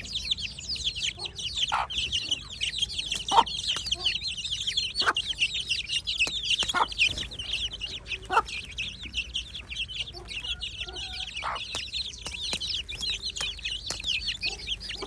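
A brood of Aseel chicks peeping nonstop in quick, high chirps, with an Aseel hen clucking now and then.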